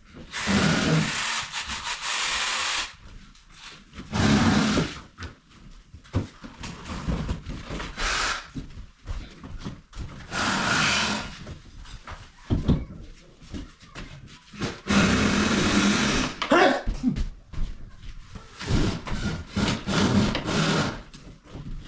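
Wood being worked with hand tools: irregular bursts of rubbing and scraping, each a second or two long, with short pauses between.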